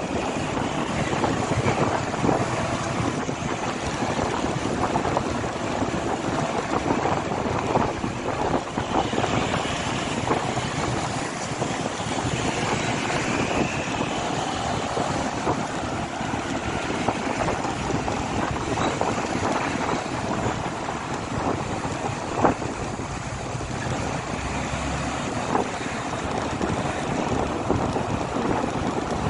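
Riding a motorcycle: steady wind rushing over the microphone, mixed with engine and road noise.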